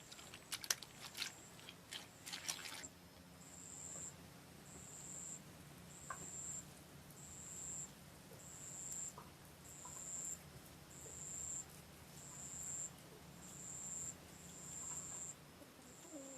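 Insect chirping: a short, high, buzzing note repeated very regularly about every 1.2 seconds, starting about three seconds in. Before it comes a cluster of sharp clicks and knocks, and a faint low hum runs underneath.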